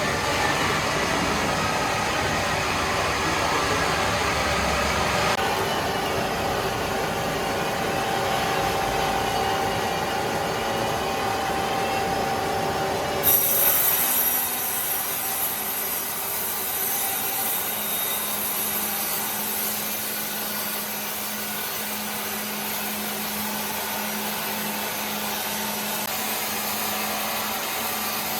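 Power saw cutting through wood in a sawmill, with steady machine noise throughout. The sound changes abruptly about five seconds in and again about halfway through, with a brief loud burst at the second change.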